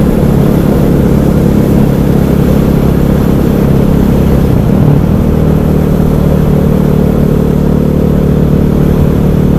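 KTM 500 EXC supermoto's single-cylinder four-stroke engine running steadily while riding, with its note changing about five seconds in.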